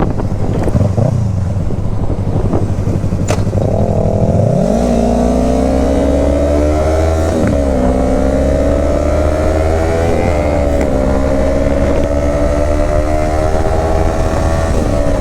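Motorcycle engine on the move: mostly a rushing noise at first, then about four seconds in the engine revs up, its pitch climbing and dropping back twice at gear changes before settling into a steady cruise.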